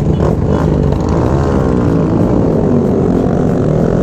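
Motorcycle engines running together on the road, their pitch rising and falling gently as the throttles are worked.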